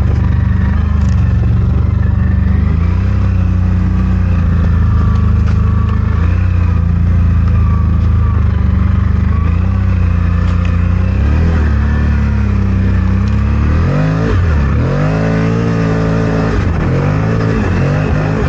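CFMOTO Gen 3 1000's engine running under load through deep snow, its pitch wavering with the throttle. From about 14 seconds in it revs up and down several times in quick succession.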